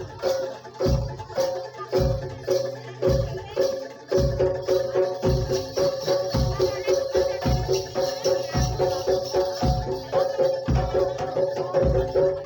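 Live kuda lumping ensemble music: deep drum strokes about twice a second under repeating pitched notes, the playing growing busier about four seconds in.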